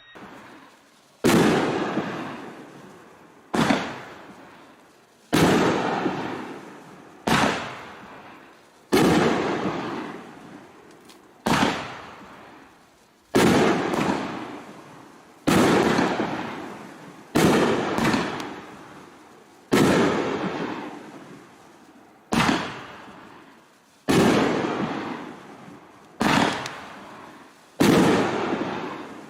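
Raccoon Fireworks 'Huge Gold Strobe' consumer fireworks cake firing its gold strobe mines: a sharp bang roughly every two seconds, each followed by a fading crackling rush from the strobing gold stars.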